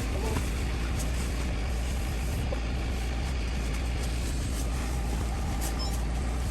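Steady low rumble of a moving vehicle, engine and road noise, that cuts off abruptly at the very end.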